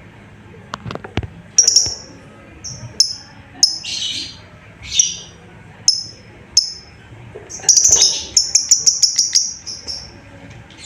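Lovebird calling with short, sharp high chirps every half second or so, breaking into a quick run of chirps about eight seconds in. The call is a contact call to draw other lovebirds into answering.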